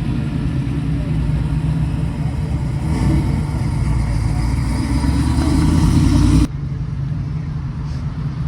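A motor vehicle's engine running with a steady low rumble, growing louder over a few seconds, then dropping off abruptly about six and a half seconds in.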